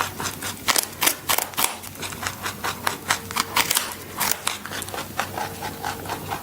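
Rabbit chewing: a quick, irregular run of crisp crunching clicks, several a second.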